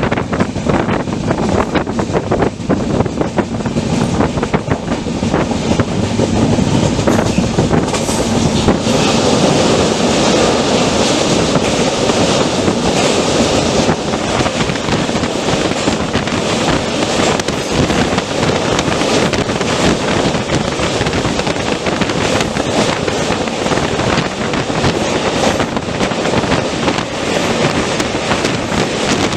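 Running noise of an Indian Railways express train heard from on board: a loud, steady rush and rattle of the moving coaches on the track. Sharp clicks of the wheels over rail joints come thick in the first several seconds.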